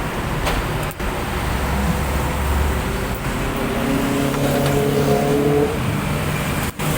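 Road traffic going past: a steady rumble, with one motor vehicle's engine note rising out of it about four seconds in and fading near six seconds.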